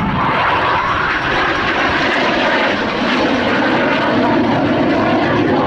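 Canadair F-86 Sabre's turbojet engine, loud and steady, as the jet flies its airshow display.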